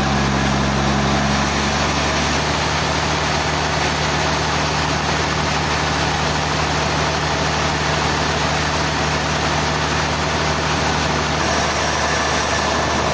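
A machine engine running steadily at a sawmill, its hum shifting slightly in pitch about two seconds in and again near the end.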